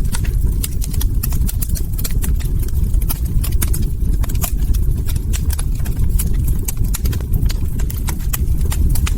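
Log fire crackling: many sharp, irregular pops and snaps over a steady low rumble of burning wood.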